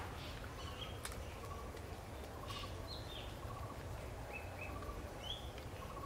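Wild birds calling faintly: a short low note repeated about once a second, with a few higher, brief calls between, over a steady low background rumble.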